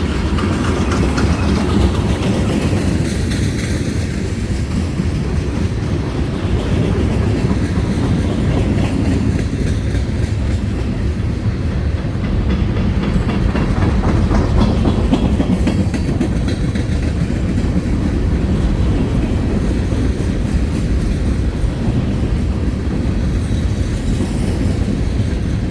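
Freight train rolling past close by: a steady heavy rumble with wheels clacking over the rail joints as the cars go by.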